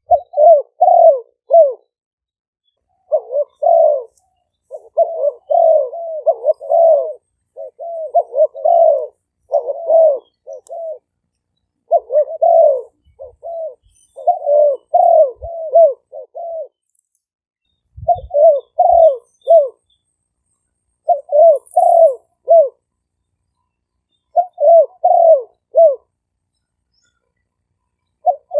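Decoy spotted doves cooing: repeated phrases of three to five short, falling coo notes, one phrase every couple of seconds, with the gaps between them silent where background noise has been cut out.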